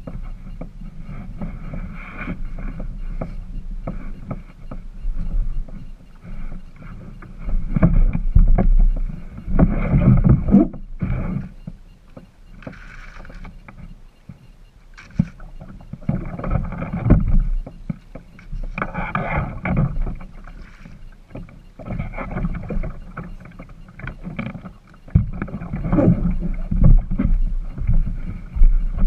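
Kayak being paddled: paddle strokes and water splashing and sloshing around the boat, coming in uneven surges with a low rumble underneath.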